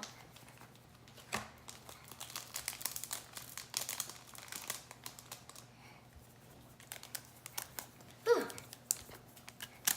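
Crinkling and crackling handling noises with scattered small clicks as slime-making materials and containers are worked by hand. A short falling squeak comes about eight seconds in.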